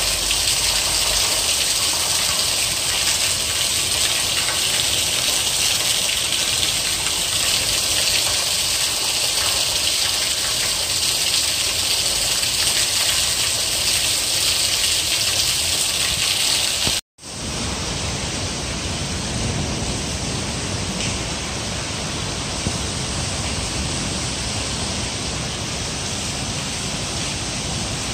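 Heavy rain pouring down in a steady hiss. About 17 seconds in it breaks off for a moment, then carries on with a deeper, fuller rush.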